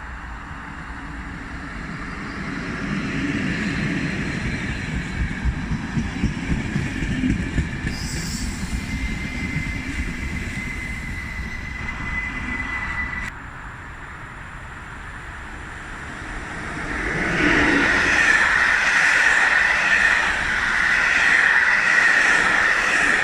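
Trains on the line: a passing train rumbles with rhythmic wheel clatter and a thin steady squeal that cuts off suddenly about halfway through. About 17 seconds in, a louder train takes over with loud, continuous wheel squeal.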